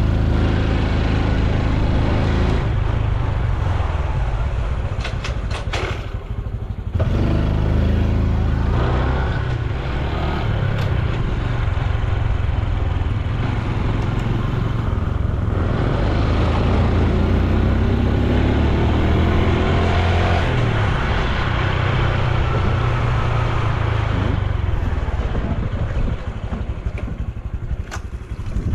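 Honda Super Cub C125's single-cylinder four-stroke engine and exhaust while riding, the pitch stepping up and down as it changes speed and gear. About six seconds in the engine drops off briefly, then pulls away again.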